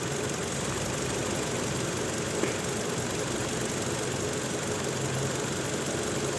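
Toyota Innova's four-cylinder petrol engine idling steadily with a misfire, which the mechanic traces to a faulty ignition coil on cylinder 1.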